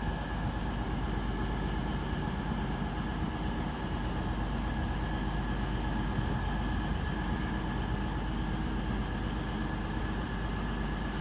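Class 221 Voyager diesel multiple unit idling at a station platform: a steady engine drone with a thin, steady high tone over it.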